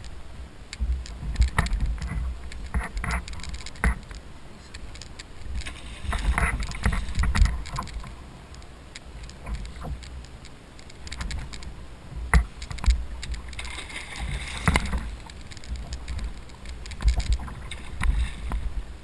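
Water sloshing and splashing around a fishing kayak, with irregular knocks and clatter against the hull and a low wind rumble on the microphone.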